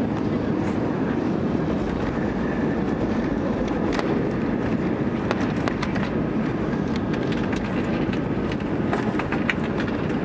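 Airbus A320 cabin noise: a steady rumble of engines and airflow, with scattered rattles and clicks from the cabin from about four seconds in, thickest near the end.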